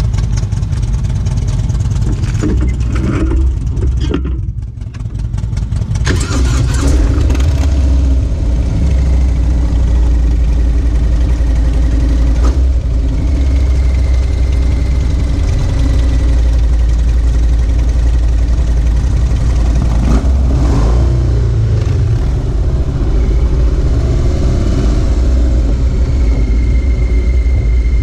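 Motorcycle engine idling with a deep, steady rumble, picking up briefly about six seconds in. The bike is under way by the end.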